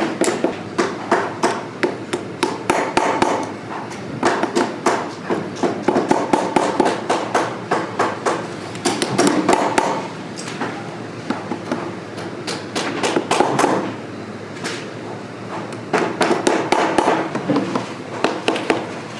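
Hammering during boot resoling: quick runs of sharp hammer strikes, several a second, with short pauses between runs.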